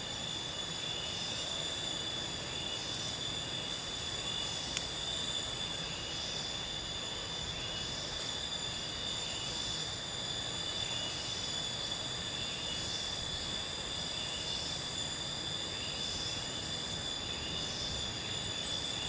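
Cicadas droning steadily, several high tones held without a break, with a softer call repeating about every one and a half to two seconds over a low, even rushing background.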